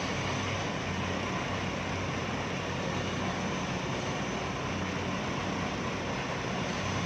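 An engine running steadily at constant speed, a low even hum under a broad mechanical noise, from machinery at a concrete pour.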